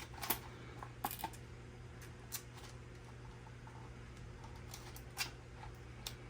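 Handling of an unboxed RC truck and its packaging: a few scattered light clicks and rustles, over a steady low hum.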